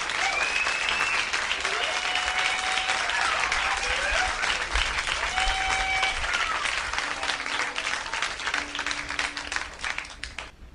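Audience applauding and cheering at the end of a sung sea shanty, with a few whistles over the clapping, fading out about ten seconds in.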